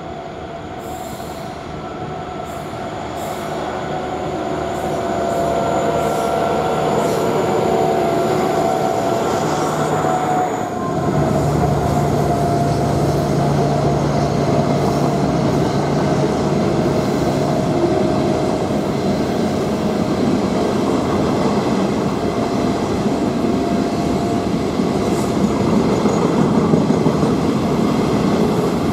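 Diesel freight locomotives approaching and passing. Their engine sound grows louder over the first few seconds, and its pitch drops about ten seconds in as the lead units go by. A steady rumble of wagons and wheels on the rails follows.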